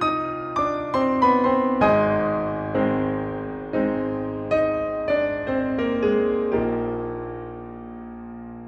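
Piano playing a slow melody over lower held notes through a long convolution reverb. The notes come quickly at first, then about one a second, and the piece ends on a chord about two-thirds in that rings out and fades.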